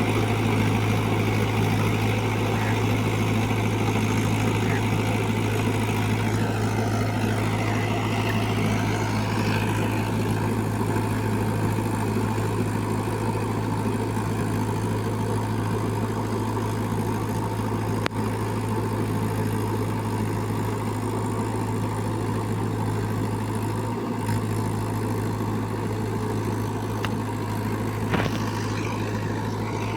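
Mahindra 475 DI XP Plus tractor's four-cylinder diesel engine running steadily with a deep, even drone.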